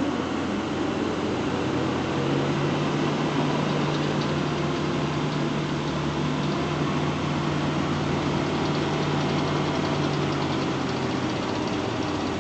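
A motor vehicle's engine running steadily, with a low hum that holds one pitch from about two seconds in until near the end.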